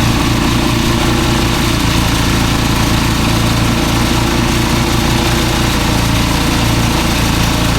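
Small engine running steadily at an even speed, with a constant low hum and a slight flutter.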